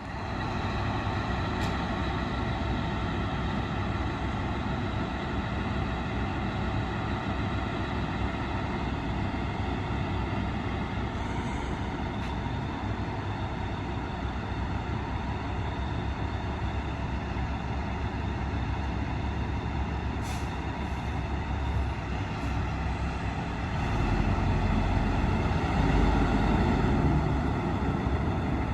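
Large diesel truck engine running steadily with a constant whine, getting louder and deeper about 24 seconds in as it works harder.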